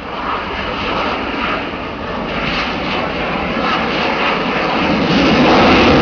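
Engine of a propeller aerobatic display plane, running through a manoeuvre and growing louder about five seconds in as it comes closer.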